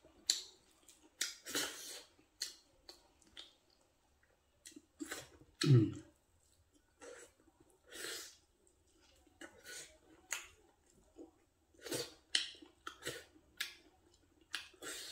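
Close-up mouth sounds of a man eating rice and curry by hand: chewing with irregular wet lip smacks and clicks. One louder, lower sound comes about six seconds in.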